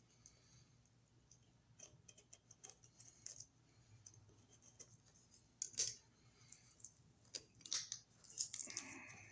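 Scattered small clicks, ticks and light scrapes of electrical wiring and hand tools being handled at an outlet box, with a few louder clicks in the second half and a short scrape near the end.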